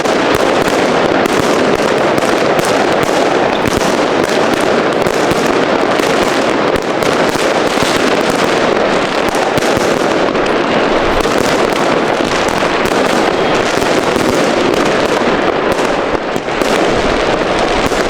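Many fireworks and firecrackers going off at once in a dense, unbroken crackle of bangs and pops.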